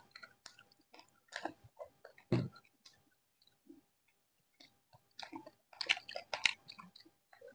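Chewing and crunching of crispy fried chicken pakoda in scattered short bites, with one low thump a little over two seconds in and a denser run of crunching near the end.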